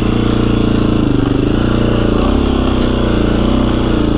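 KTM 350 EXC-F's single-cylinder four-stroke engine running at low, fairly steady revs, the note rising and dipping slightly as the rider goes gently.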